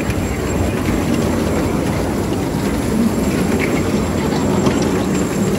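Steady rumble of a small passenger train ride running along.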